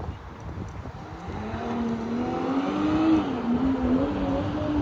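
Car engine running, its pitch climbing for a couple of seconds as it revs, then dropping back slightly and holding steady.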